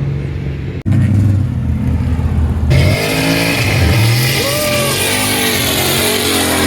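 Car engine running with a steady low rumble, cut off briefly just under a second in. About a third of the way through, a loud rushing hiss joins it, with wavering tones on top.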